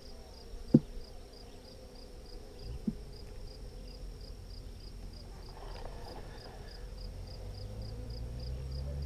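Honeybees buzzing around an opened hive, with two sharp knocks from handling the hive, the first and loudest about a second in and a softer one about three seconds in. A low steady hum grows in over the last second or two.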